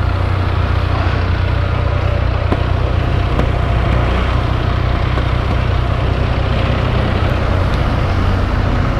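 Motorcycle engine idling steadily, a constant low hum with no revving.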